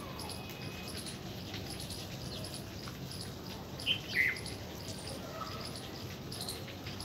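Two short, high bird chirps in quick succession about four seconds in, over a steady outdoor background with faint, rapid high ticking.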